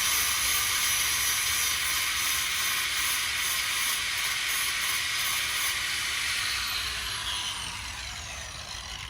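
Handheld rotary power tool grinding metal bare, a steady high hiss that winds down with a falling pitch over the last couple of seconds as the tool spins down. The metal is being cleaned to give the welder a good ground.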